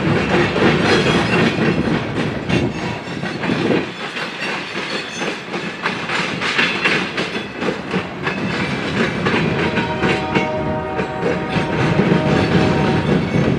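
Train rolling past, its cars' wheels clattering over the rail joints, with a steady ringing tone joining in for a couple of seconds about ten seconds in.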